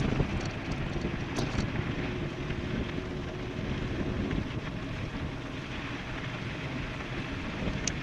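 Wind rushing over the microphone of an e-bike ride at high speed downhill. A faint steady hum comes in for a couple of seconds midway.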